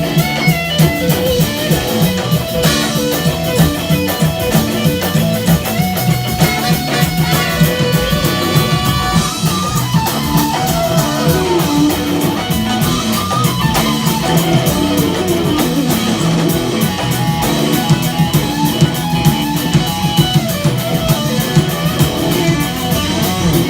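Rock band playing an instrumental passage: a lead electric guitar over drum kit and bass, with a steady beat.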